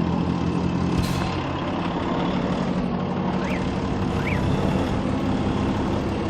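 Rally truck's diesel engine running steadily, with a short burst of noise about a second in.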